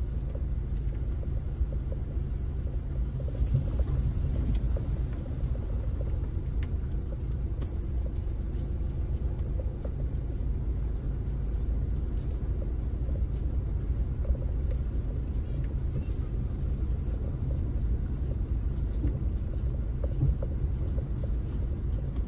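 Steady low rumble of a vehicle's engine and running gear as it drives slowly through floodwater, heard from inside the cab.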